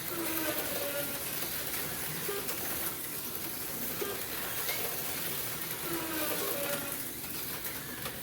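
HO-scale slot cars running around the track: a steady hissing whir of small electric motors and pickup shoes on the rails, with faint voices underneath.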